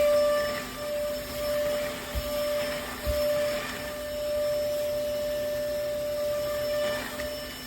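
Lodick cordless stick vacuum cleaner running, its motor giving a steady whine while the loudness rises and falls, with two brief low thumps a few seconds in.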